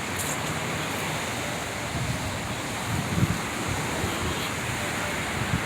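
Ocean surf washing on a beach, a steady noise, with wind buffeting the microphone in low rumbles from about three seconds in.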